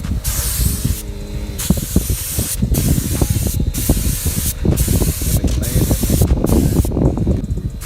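Paint spray gun hissing in repeated bursts of about a second each, broken by short pauses between passes, as clear coat is sprayed onto a car body. A steady low rumble runs underneath.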